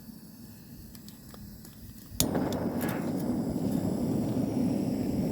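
A few faint clicks, then a click about two seconds in and a steady rushing noise as a powered device switches on and keeps running.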